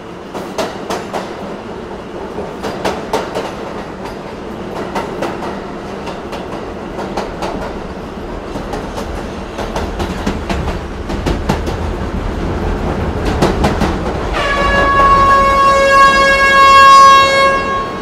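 Train wheels clacking over rail joints and points above a low running rumble, then a train horn sounding one long blast of about three seconds late on, its pitch sagging slightly before it cuts off.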